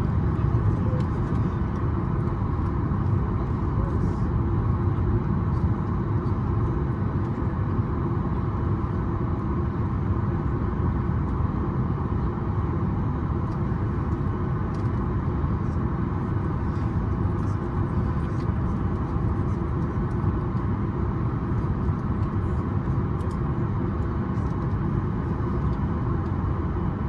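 Steady cabin noise inside a Boeing 737 MAX 8 on the ground, an even low rumble with faint steady tones above it.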